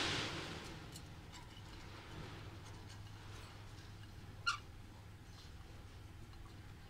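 A single short chirp from a pet bird about four and a half seconds in, over a steady low hum and a few faint clicks.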